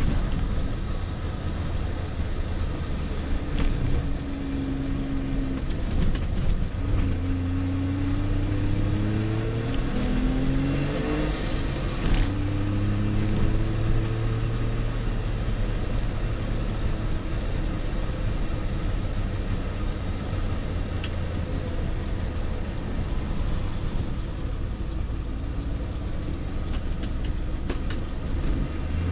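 1966 DKW Vemag Belcar's three-cylinder two-stroke engine, heard from inside the cabin, pulling the car along. Its pitch climbs several times through the first half as the car accelerates, then it runs more steadily, over road noise.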